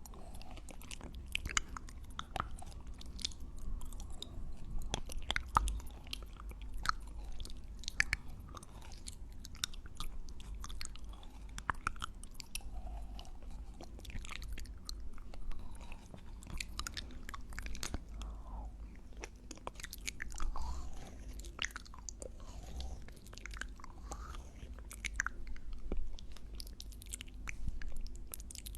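Close-miked mouth sounds of popping boba being chewed: many sharp, irregular pops and clicks as the pearls burst, with wet chewing between them.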